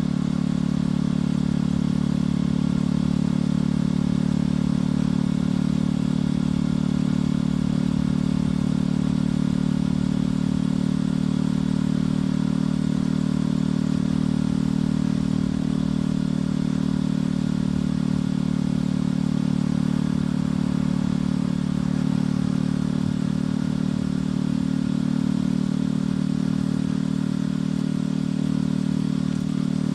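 Motorcycle engine and exhaust running at a steady cruising speed while riding, its note holding even throughout.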